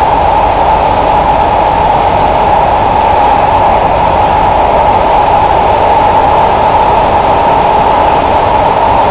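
Kawasaki–CSR Qingdao Sifang C151A train running at steady speed, heard inside the carriage: a loud continuous rolling noise with a steady high hum near the top of it, unchanging throughout.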